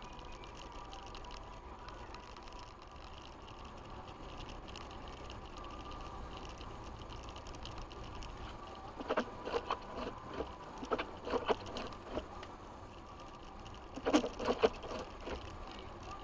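Truck driving on snowy roads, heard from inside the cab: a steady low engine and road rumble with hiss. About nine seconds in, and again near the end, come irregular bursts of sharp knocks and rattles.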